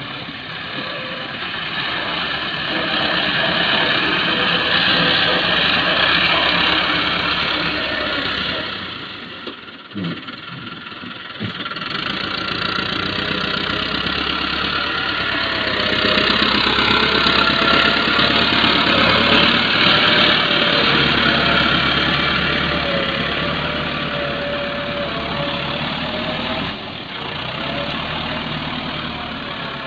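Tractor diesel engine running under load while loading soil, its level rising and falling as it works. It dips about ten seconds in, where a few sharp knocks are heard.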